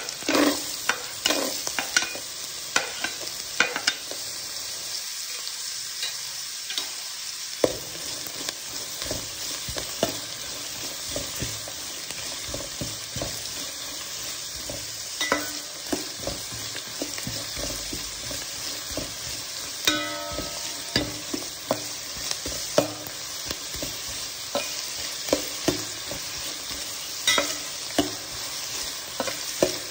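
Chopped onion and carrot sizzling in hot ghee in a pan with a steady hiss, stirred with a utensil that clicks and scrapes against the pan at irregular moments.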